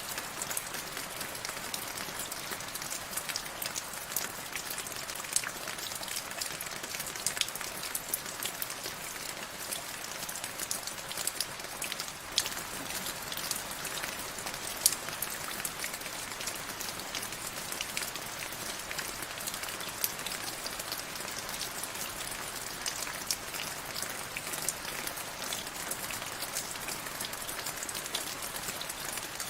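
Steady rain falling, with many distinct drops tapping and pattering on a hard surface.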